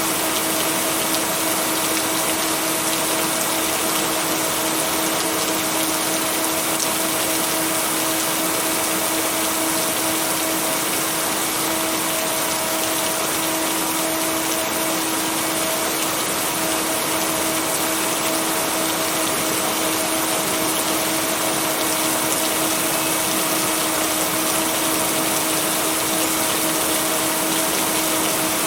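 Steady rain as an even, unbroken hiss, with a steady low hum of two tones underneath: the binaural-beat tone blended into the rain track. No thunder breaks through.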